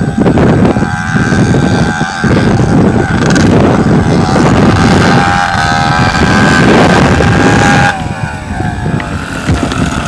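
Dirt bike engine revving hard under throttle, with wind buffeting the microphone; about eight seconds in the throttle is let off and the engine note falls away.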